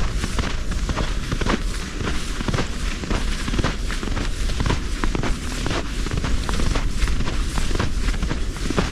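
Wind buffeting the microphone in a heavy, uneven rumble, with irregular crunches and knocks from footsteps in snow.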